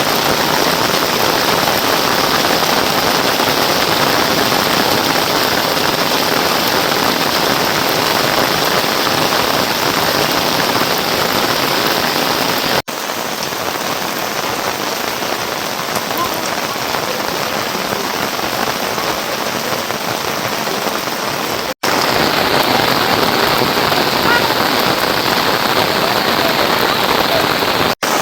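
Steady rain falling, an even hiss of drops. The sound cuts out for an instant about 13 seconds in, runs somewhat quieter, then cuts again near 22 seconds and returns louder, with another brief break near the end.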